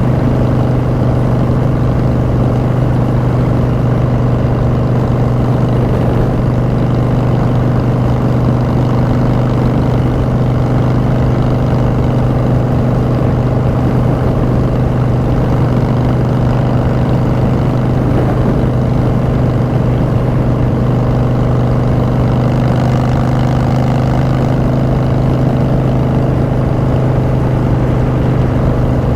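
Harley-Davidson Street Bob's V-twin running through Vance & Hines Short Shots exhaust, holding a steady pitch while cruising at an even speed.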